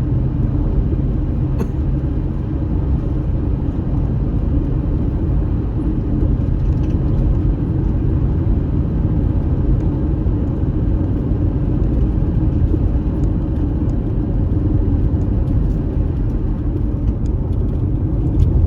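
Steady low rumble of a car driving, road and engine noise heard inside the cabin, with a few faint ticks.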